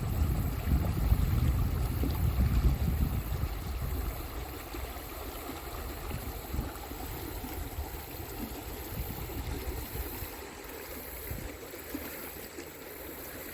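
Stream water rushing over rocks, a steady even hiss, with a low rumble on the microphone for the first few seconds.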